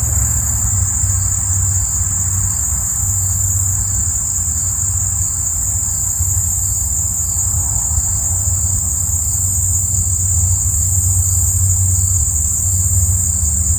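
Steady chorus of crickets, one constant high shrill, over an unbroken low rumble.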